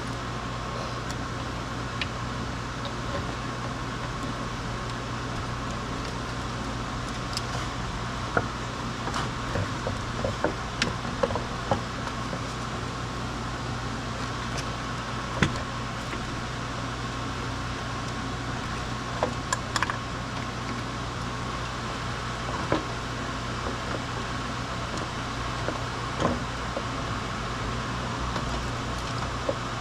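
A steady mechanical hum, with scattered light clicks and knocks, most of them from about eight seconds in.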